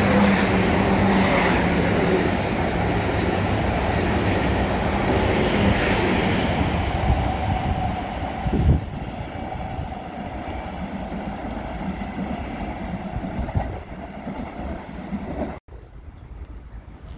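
South Western Railway electric multiple unit pulling away and running off down the line, its motors humming and wheels rumbling on the track, the sound fading as it draws away. It cuts off abruptly near the end.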